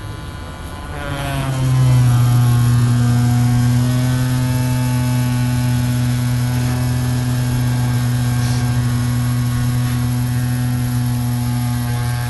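Small electric drill speeding up over the first two seconds, then running at a steady speed with a constant hum. It is drilling into the impact point of a windshield star crack to open it for resin.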